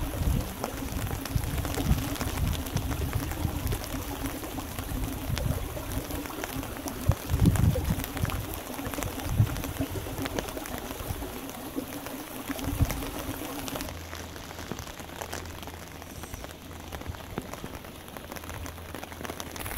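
Rain falling on wet ground and standing water: a steady hiss full of small drop hits, with irregular low rumbles that are loudest about seven seconds in. About two-thirds through, the rumbles drop away and the rain sounds thinner and quieter.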